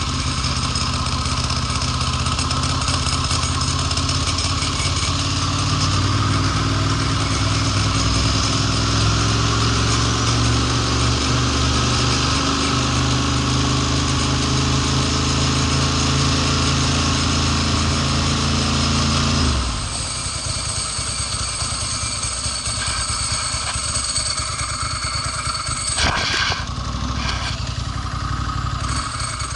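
A 2002 Ducati Monster S4's L-twin engine runs steadily, then suddenly cuts out about two-thirds of the way through. This is the intermittent dying-off fault the owner is trying to trace. After it cuts out, a steady hiss with a high whine remains, and there is a single knock near the end.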